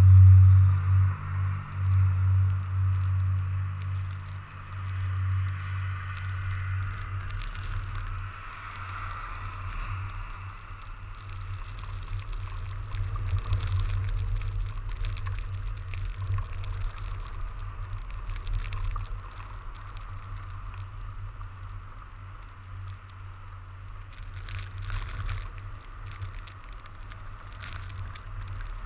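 Riding noise of a fat bike in snow: a low, uneven wind rumble on the microphone over the hiss of the tyres rolling through snow, with a few sharp clicks near the end.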